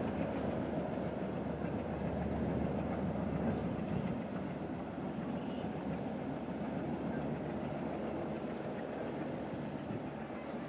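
Train running past with a steady rumble, easing slightly after about four seconds.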